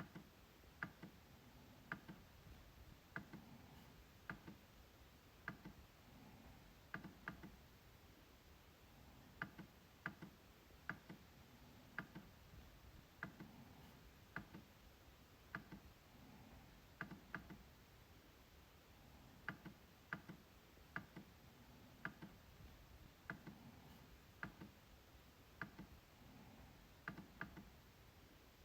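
MacBook trackpad being clicked: short, sharp clicks about once a second, some single and some in quick pairs like double-clicks.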